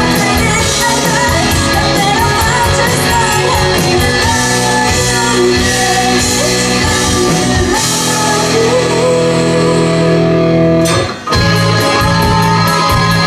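Live rock band playing loudly: electric guitars, bass, keyboard and drums, with singing over it. About eleven seconds in the band cuts out for a moment, then comes straight back in.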